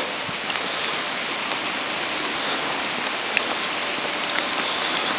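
Steady storm rain falling, with a few faint ticks of single drops.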